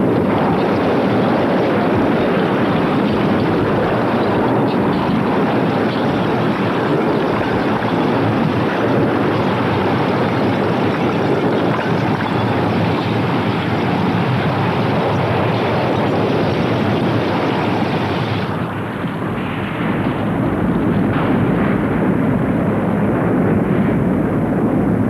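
Volcanic eruption sounding as a continuous loud rumbling roar. About eighteen seconds in the roar turns duller and dips briefly, then carries on.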